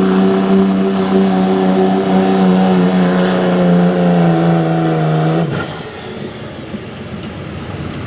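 Diesel 4x4 pickup engine at full throttle pulling the sled, a steady high-revving note with a high whistle above it, sagging a little in pitch as it loads down, then cut off abruptly about five and a half seconds in as the driver lets off at the end of the pull.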